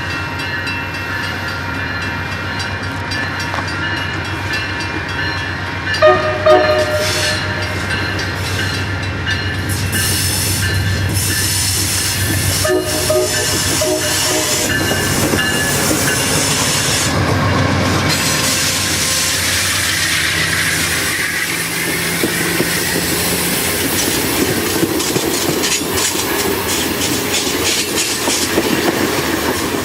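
Amtrak passenger train departing: the diesel locomotive's engine runs, and its horn sounds short blasts about 6 seconds in and again about 13 seconds in. In the second half the train's wheels roll past with a clickety-clack over the rail joints.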